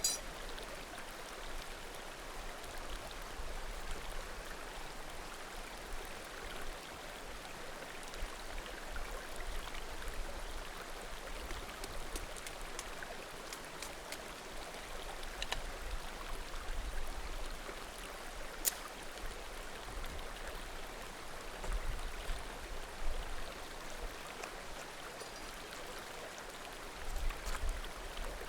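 A small mountain creek murmuring steadily, with a few faint, sharp pops from burning firewood scattered through.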